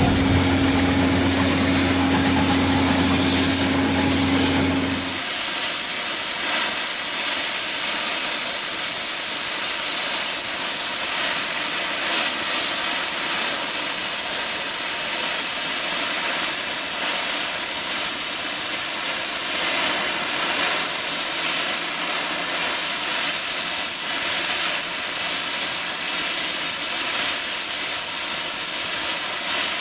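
Steam locomotive letting off steam with a loud, steady, high hiss. For the first five seconds or so a low steady hum sits underneath, then stops.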